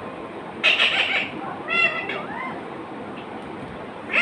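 A pet bird calling: a loud call about a second in, then a few short chirps and whistled glides that rise and fall in pitch.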